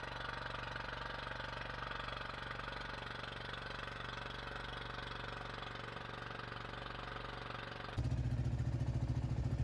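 An engine running steadily at low level. About eight seconds in it gives way abruptly to a louder engine with a fast, even throb.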